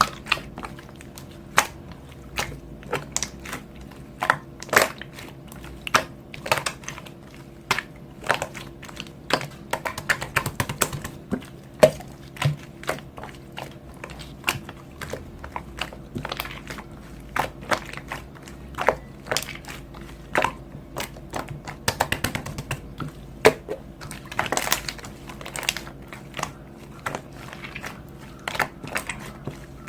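Crunchy chewing: irregular sharp crunches and clicks, about one to two a second, over a steady low hum.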